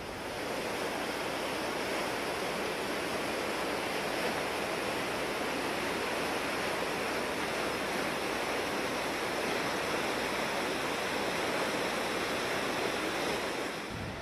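Floodwater of a river swollen by a typhoon, rushing steadily.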